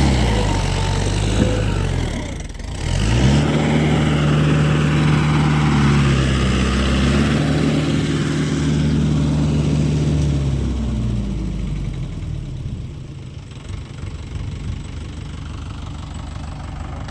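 Tractor engine revving: it dips briefly about two seconds in, climbs back and is held at high revs, then drops to a lower, rougher idle after about eleven seconds.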